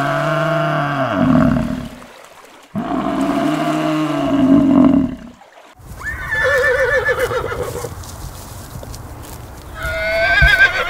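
Two long, low moos from a water buffalo, each about two and a half seconds, rising then falling in pitch. A horse then whinnies with a quavering neigh about six seconds in, and again near the end.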